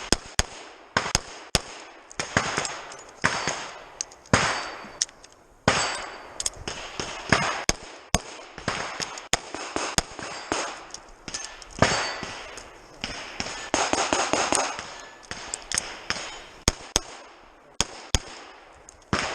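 Scattered gunshots at irregular intervals, sometimes two or three close together, with a rushing noise between them.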